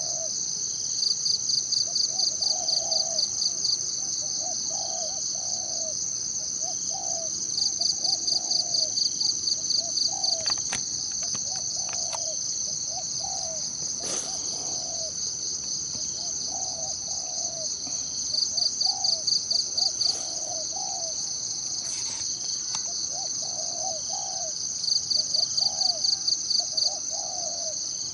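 Forest ambience: a steady high-pitched insect drone, broken four times by rapid pulsing trills lasting two to three seconds each, while a bird repeats short low calls throughout.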